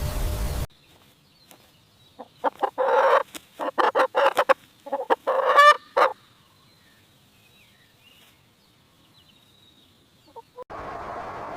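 Chicken clucking: a quick run of short clucks over about four seconds, ending in a longer drawn-out call.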